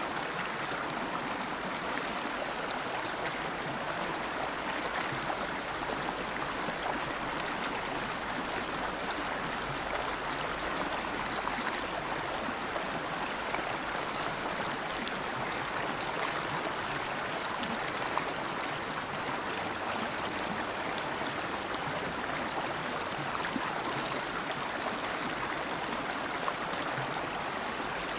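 River water flowing steadily, a constant rushing and gurgling of a stream.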